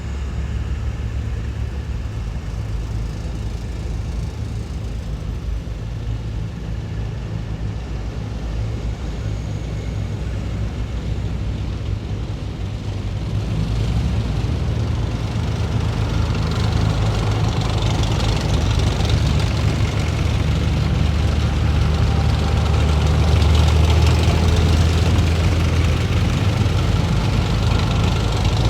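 Heavy military vehicles' engines rumbling low and steady as they move along a street, growing louder from about halfway through as the vehicles come closer.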